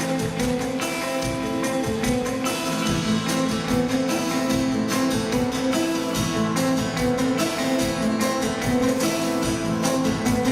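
Live band music: an instrumental passage with strummed guitar over held notes and a steady rhythm.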